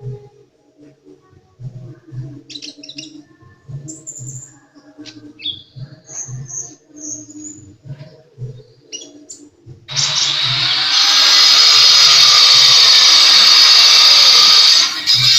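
A sunbird (the small songbird sold in Indonesia as 'kolibri') giving short, high chirps and whistles. About ten seconds in, a much louder harsh, hissing sound takes over for about five seconds and stops just before the end.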